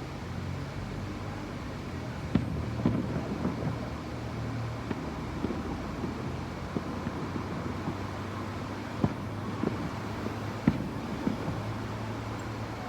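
Fireworks going off at a distance in scattered pops and bangs, the strongest about two seconds in and near the end, over a steady low hum.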